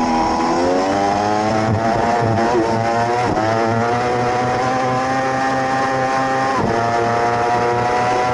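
600-class racing motorcycle engine at high revs under hard acceleration, its pitch climbing, with short breaks about three and six and a half seconds in as it shifts up a gear.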